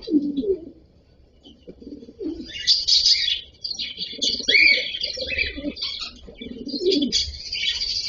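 Cockatiels chirping in quick, overlapping bursts, starting about two and a half seconds in after a brief lull. Low cooing notes come and go beneath the chirps.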